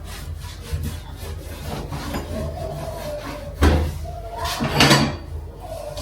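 Household handling sounds: a sharp knock a little past halfway, then a short scraping sound.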